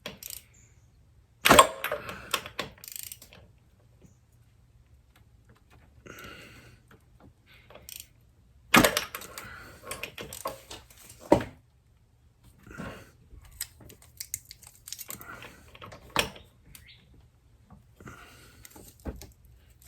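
Irregular metallic clicks and short rattles of hand tools and feeler-gauge blades being handled during a valve-clearance check, with the sharpest clatters about a second and a half in and again around nine and eleven seconds.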